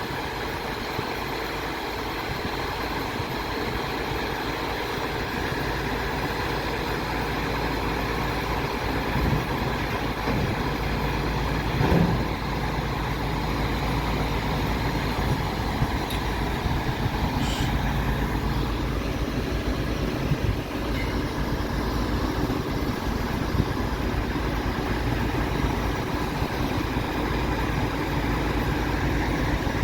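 MAN TGS 26.320 refuse truck's diesel engine running steadily, gradually getting a little louder, with a single sharp clunk about twelve seconds in.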